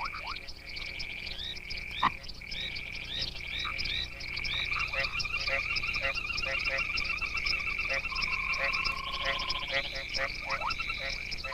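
Night chorus of many frogs calling over flooded ground: a steady high trill with overlapping short rising chirps, joined from about four seconds in by rapid pulsed calls. A single sharp click about two seconds in.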